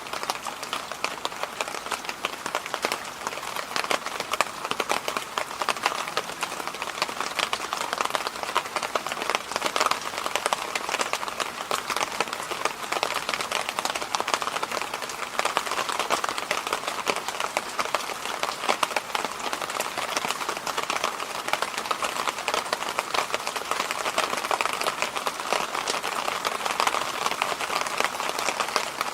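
Electric fan running steadily: an even rushing noise with a fine, dense crackly texture, unchanging throughout.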